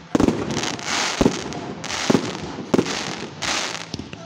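Fireworks going off: about five sharp bangs from bursting shells, roughly one a second, over a rushing hiss of launching and burning effects.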